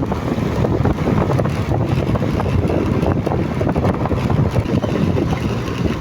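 Wind buffeting the microphone on a moving motorcycle, a loud rough rumble with engine and road noise underneath.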